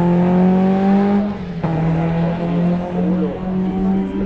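Hillclimb race car engine running hard, its note climbing slightly in pitch, then dipping briefly about a second and a half in before carrying on at a steady pitch.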